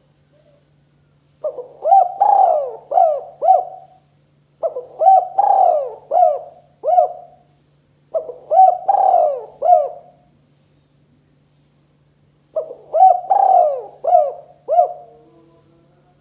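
Spotted dove (tekukur) cooing: four phrases of four or five short coos each, with a pause of one to two and a half seconds between phrases.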